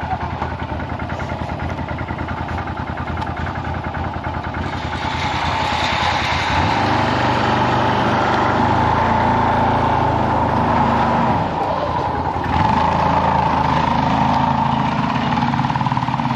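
A small vehicle engine running, first with a fast even throb, then pulling away louder and steadier from about five seconds in. It drops briefly about twelve seconds in and then picks up again.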